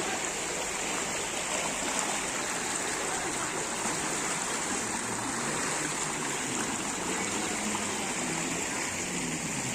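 Floodwater flowing, a steady rushing of water with a constant high hiss.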